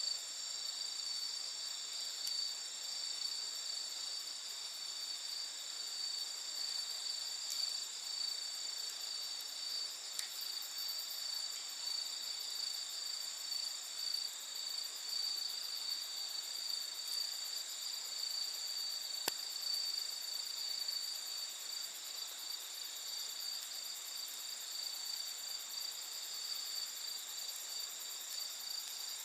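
Steady chorus of night insects such as crickets, a continuous high trilling at several pitches, with one sharp snap about two-thirds of the way through.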